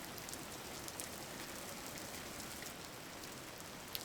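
Steady rain falling, an even hiss with scattered drop ticks and one sharper tick near the end.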